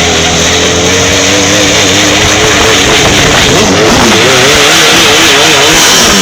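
Drag-racing superbike engines running loud at high revs, their pitch wavering up and down.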